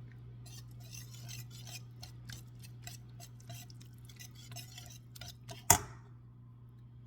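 Spoon scraping shredded cheese into the sauce in a run of quick short strokes, then one loud sharp clank of the spoon knocked against the rim near the end, ringing briefly.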